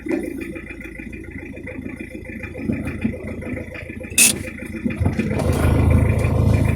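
Toyota Corolla's 1C four-cylinder diesel engine running with a low drone, and a sharp click about four seconds in. The engine sound grows louder over the last second or two.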